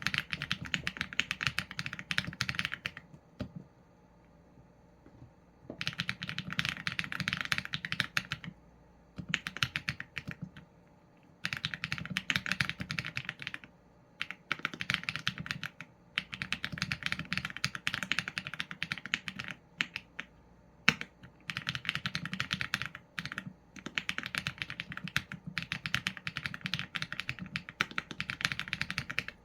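Mechanical keyboard typing on a Qsenn A75 with Leobog Graywood v4 linear switches and PBT keycaps, in quick runs of keystrokes broken by short pauses, the longest about three seconds in. One key strike about two-thirds of the way through is sharper and louder than the rest.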